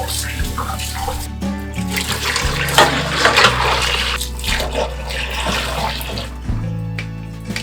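Kitchen tap water running into a sink, over soft background music; the water is loudest from about a second in and falls away near the end.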